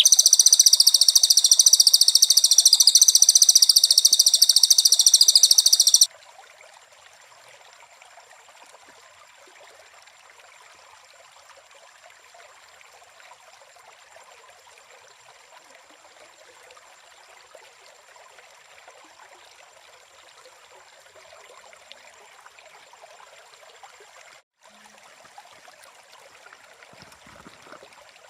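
A loud, high, rapidly pulsing buzzing trill from a calling animal, held steady and cut off abruptly about six seconds in. After it comes faint, steady natural background with a thin high whine.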